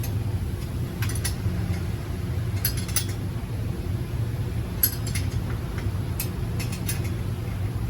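Light metallic clinks and taps from work on the exhaust and muffler, coming a few at a time over a steady low hum.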